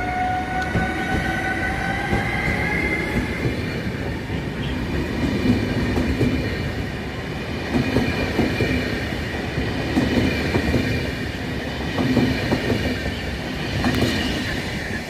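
Electric locomotive pulling an express passenger train out of the station: its motor whine rises in pitch as it gathers speed, then the coaches roll past with a steady rumble and repeated wheel knocks over rail joints.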